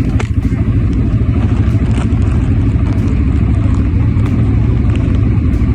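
ATV engine running steadily with a continuous low rumble, heard while riding.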